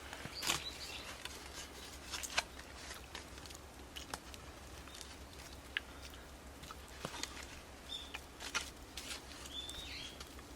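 Wood fire crackling in a Snow Peak fire stand, with irregular sharp pops and snaps. Two short high chirps come near the end.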